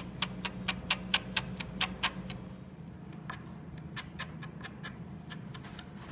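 Thin spoon scraping raw porterhouse strip steak in quick rhythmic strokes, about four to five a second, growing fainter and less regular after about two seconds. Each stroke pulls the red meat away from the white connective tissue to make scraped steak tartare.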